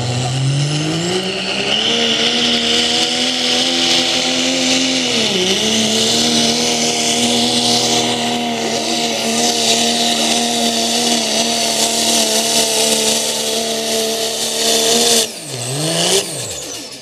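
Turbocharged diesel pickup truck engine at full throttle pulling a weight sled. It revs up, holds high with a brief dip about five seconds in, then drops off sharply near the end as the driver lets off, the pitch falling, with a high whistle rising.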